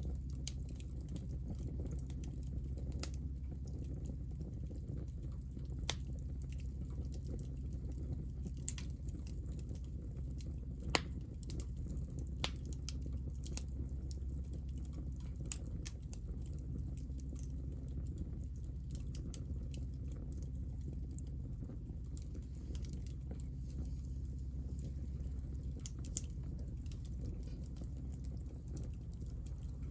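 Hinoki offcuts burning in a small fire, crackling steadily with frequent light ticks and a few sharper pops over a steady low rumble.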